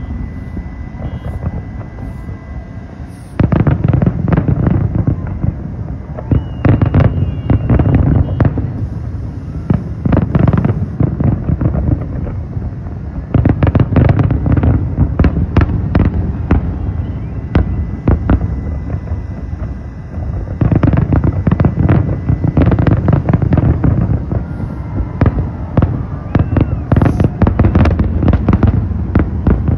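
Large aerial fireworks display: a dense, continuous barrage of shell bangs and crackle, growing much louder about three seconds in.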